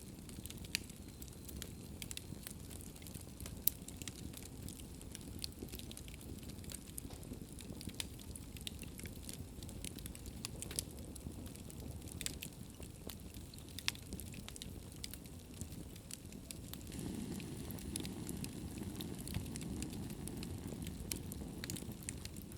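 Wood fire burning in a fireplace, crackling with many scattered sharp pops over a low steady rumble of the flames; the rumble grows louder for the last few seconds.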